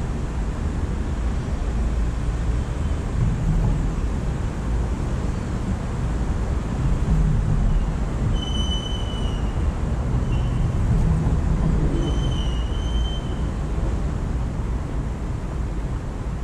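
Steady low rumble of background noise, with a few short, clear bird notes about halfway through, one pair close together and another longer note a few seconds later.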